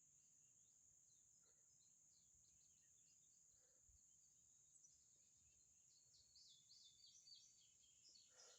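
Near silence: faint birdsong, short high chirps that come more often after about five seconds, over a steady high hiss.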